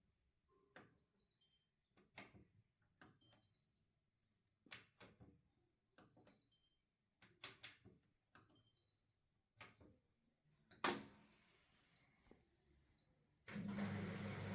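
Indesit washing machine control panel: a series of sharp clicks, with short chirps of a few high beeps after four of them. About eleven seconds in comes a louder click, and near the end a low hum starts up.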